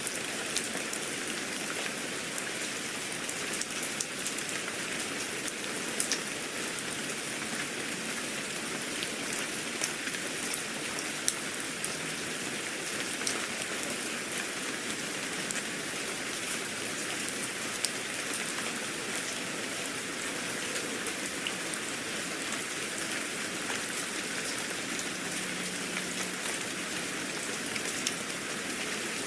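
Steady rain falling on a surface, a continuous hiss with scattered sharp drop ticks.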